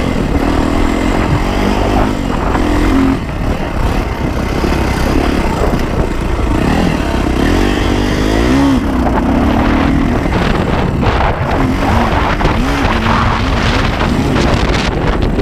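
Yamaha YZ450F dirt bike's single-cylinder four-stroke engine running, its pitch rising and falling as the throttle is worked, over steady rushing noise.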